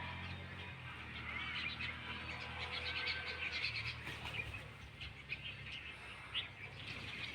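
Many small birds chirping together, with short calls overlapping thickly throughout, over a steady low hum.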